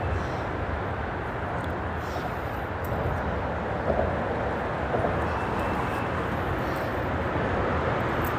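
Steady rumble of freeway traffic on the bridge overhead, blended with the rush of the creek's running water.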